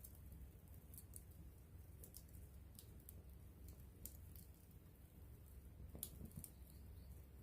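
Wood campfire crackling faintly: irregular sharp pops and snaps over a low steady rumble.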